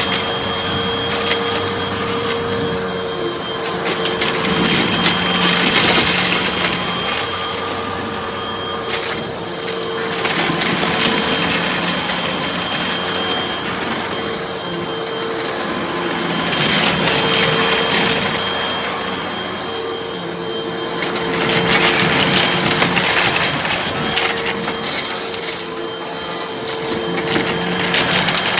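A Hoover vacuum cleaner running with a steady motor tone, sucking up small dry crunchy debris that crackles and rattles as it is drawn in. The crackling swells and eases in passes about every five to six seconds.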